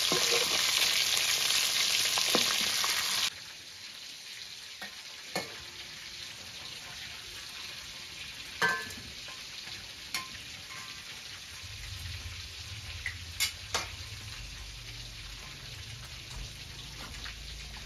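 Food frying in a pan, a loud sizzle that drops off abruptly about three seconds in to a quieter sizzle, with a few sharp clicks and knocks of utensils.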